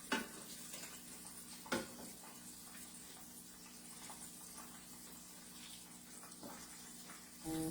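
Chicken pieces frying in hot oil, giving a steady sizzling hiss over a steady low hum. There are two light knocks, one at the start and another a couple of seconds in.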